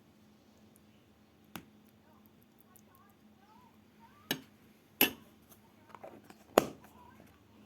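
A few sharp clicks and knocks of objects being handled, four in all, the loudest about five seconds in, over a quiet background.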